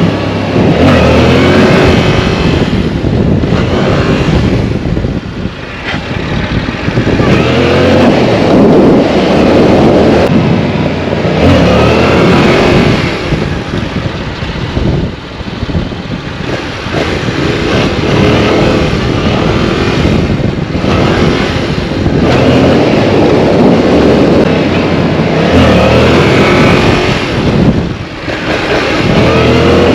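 Yamaha R7's parallel-twin engine revving hard, its pitch climbing and dropping again and again as the throttle is opened and rolled off, with brief lulls now and then.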